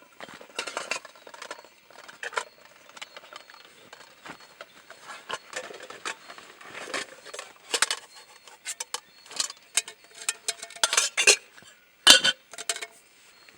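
Camping gear being rummaged and handled: metal items clinking and knocking at irregular moments, with one loud knock near the end.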